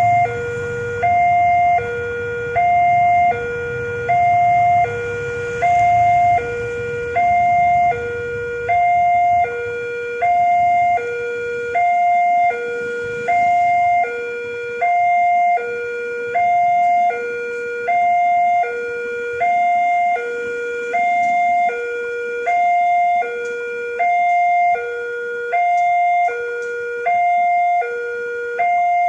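Railway level-crossing warning alarm sounding a two-tone high–low chime that alternates evenly, about one high and one low note each second: the signal that a train is approaching and the crossing is closing. A low rumble fades away during the first several seconds.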